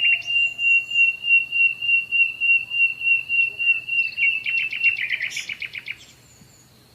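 A songbird singing: a long, high whistled note pulsing a few times a second, then a fast trill of rapid notes that breaks off about six seconds in.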